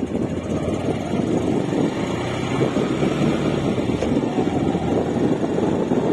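Wind buffeting the microphone: a steady, rumbling rush of noise that flutters constantly.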